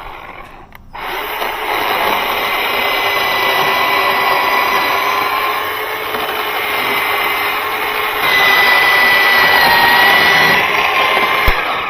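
Bauer 20V cordless electric chainsaw running and cutting wood: a steady motor whine with chain rattle. It is briefly interrupted about half a second in, gets louder about eight seconds in, and stops abruptly at the end.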